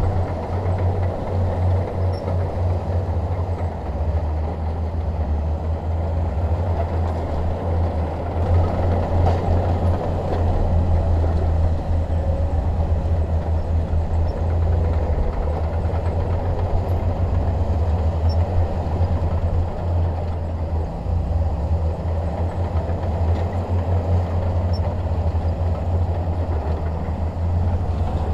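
Shantui DH17 bulldozer's diesel engine running under steady load, with a deep low drone and the clatter of its steel tracks.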